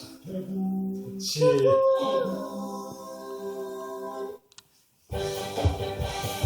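A voice humming a slow melody in long held notes; after a brief dropout a little past four seconds in, music with a beat starts.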